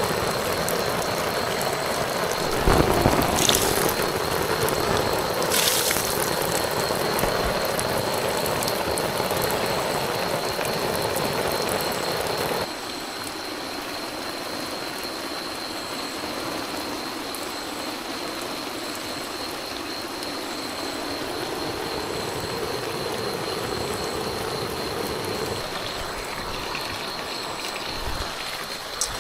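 Heavy tropical rain pouring down in a steady hiss, with a couple of brief louder knocks in the first six seconds. It drops suddenly to a softer, thinner level about thirteen seconds in.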